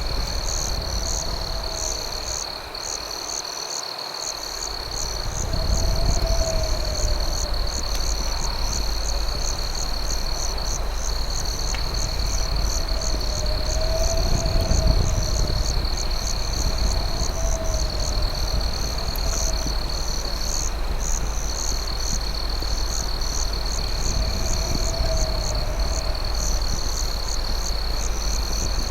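Night insect chorus of crickets: a steady high-pitched trill with a faster pulsing chirp above it, a lower warbling call now and then, over a low rumble.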